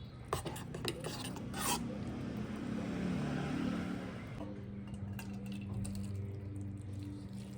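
A metal utensil clinking against a dish or pot: a few sharp clinks in the first two seconds, then scraping and stirring, with a steady low hum setting in about four and a half seconds in.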